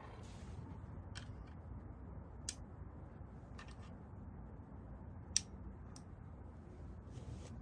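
A handful of sharp, separate clicks, about five, the loudest a little past halfway, over a steady low rumble.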